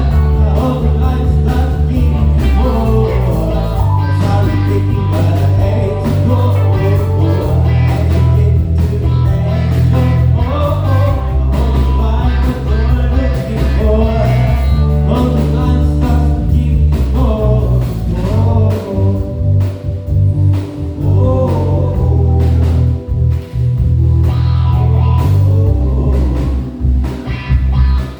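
Live band playing a soul tune: bass guitar, drums and keys under a gliding lead melody line.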